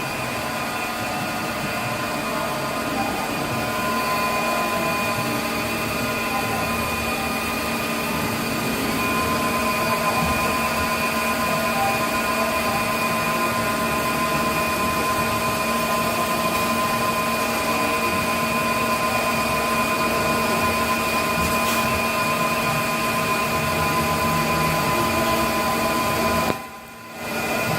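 CNC lathe running through its program, a steady machine hum with several steady whining tones from the spindle and drives, dipping briefly about a second before the end.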